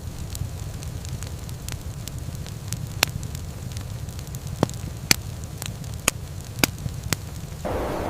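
Wood fire burning with a low steady rumble and sharp crackles and pops, several of them in the second half.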